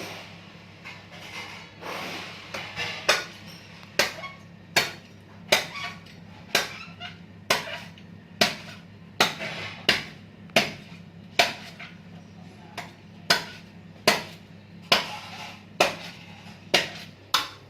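A coconut being hacked open with a heavy blade: sharp chopping blows at a steady rhythm, about one every 0.8 seconds, some twenty strikes in a row.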